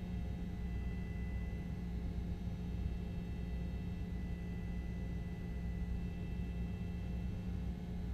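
Steady low hum with faint constant tones and no sudden sounds, the background noise of an open live-broadcast microphone.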